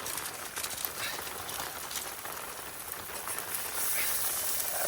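Rain pattering, with many scattered drop ticks; from about four seconds in, a steady high hiss grows louder.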